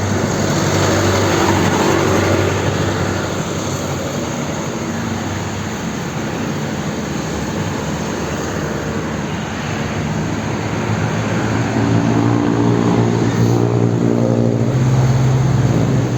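Road traffic heard from a moving bicycle: motor vehicle engines running close by over a steady rush of noise, with a louder engine hum building about eleven seconds in.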